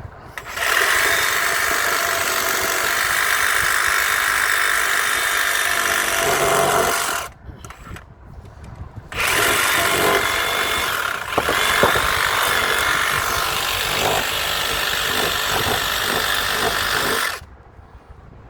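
Electric power tool cutting and shaving down timber. It runs in two long, steady passes, the first lasting about six seconds and the second about eight, with a brief stop between them.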